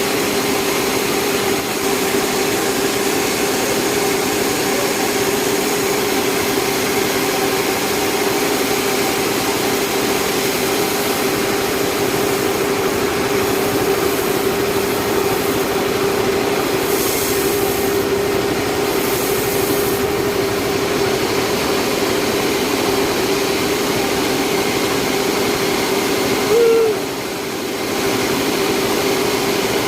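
Sawmill saw running with a steady, even hum of one constant pitch. Near the end the level dips briefly, then the hum comes back.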